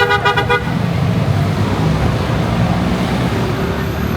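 A vehicle horn beeps in a quick stutter in the first half-second, over the steady low rumble of a motorcycle riding through city traffic.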